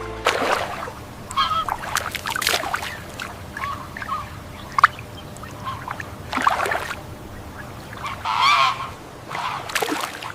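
Birds calling: a quick, irregular series of short harsh calls, some overlapping, with a longer, louder call about eight seconds in.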